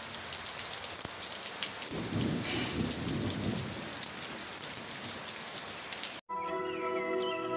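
Steady rain falling on surfaces, with a low rumble of thunder from about two seconds in, lasting a second and a half. Near the end the rain cuts off suddenly and soft music with bird chirps begins.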